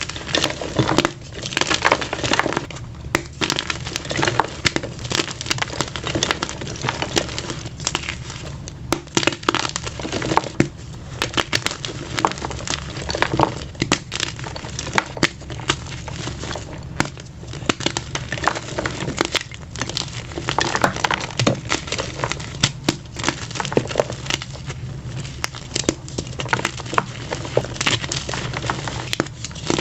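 Plain white gym chalk blocks being crushed by hand, making a continuous run of crunches and crumbling as the soft chalk breaks apart. A faint steady low hum runs underneath.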